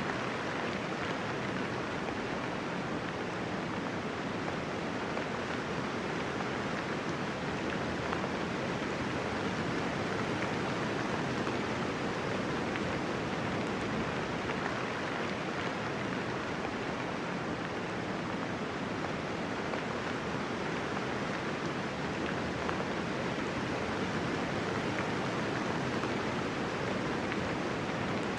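Steady gentle rain without thunder: an even hiss of falling raindrops that does not change.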